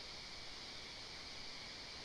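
Faint, steady outdoor ambience from a nest-camera microphone: an even hiss with no distinct calls or knocks.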